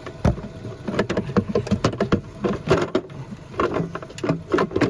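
Irregular clicks, knocks and clunks of the engine's air intake ducting being pulled apart by hand under the hood, coming in quick flurries.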